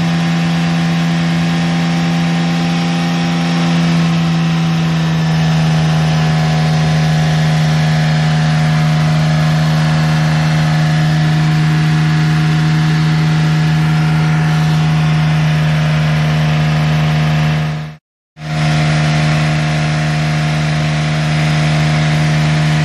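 Porsche 996 Turbo's twin-turbo flat-six running steadily while its cooling system is bled of air and warms up. The sound breaks off for an instant about eighteen seconds in.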